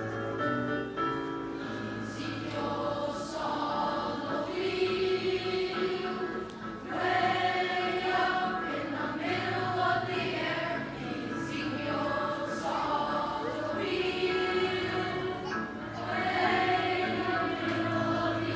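Choral music: a choir singing over a steady instrumental accompaniment.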